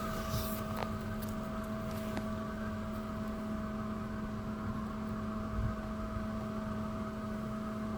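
A steady machine hum with a few fixed tones over a low rumble, and a couple of faint clicks in the first seconds.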